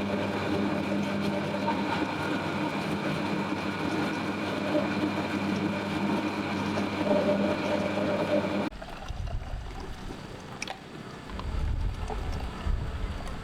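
A motor running steadily with an even hum, which cuts off abruptly about two-thirds of the way in. A quieter low rumble with a few light clicks follows.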